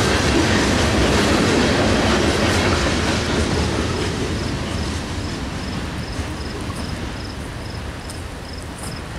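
Freight train cars rolling past on the rails, a steady rumble and wheel clatter that fades gradually as the train moves on. From about a third of the way in, a cricket chirps steadily, about two or three chirps a second.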